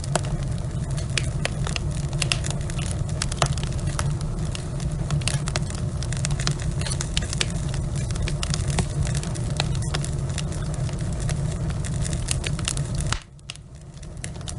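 Logs burning in a fireplace: a steady low rumble of the fire with frequent sharp crackles and pops. About thirteen seconds in, the sound drops off abruptly for a second or so, then comes back.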